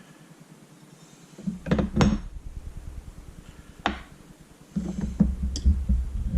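Small metal parts of a paintball marker being handled on a work surface: a few sharp clinks and clicks, a single click a couple of seconds later, then low rumbling handling noise with more light knocks from about five seconds in.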